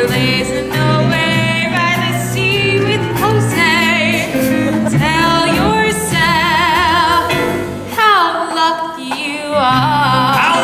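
A woman singing a musical-theatre song with a wide vibrato on held notes, over instrumental accompaniment.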